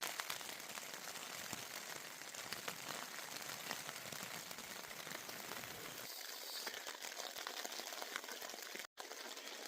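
Steady rain pattering on a tent, a constant hiss dotted with many small drop ticks, broken once by a brief dropout near the end.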